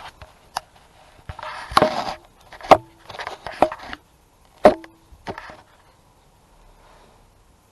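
Car panels being handled and fitted back on: a string of sharp knocks and clicks with scraping in between, two of the knocks leaving a brief ring. It goes quiet after about five and a half seconds.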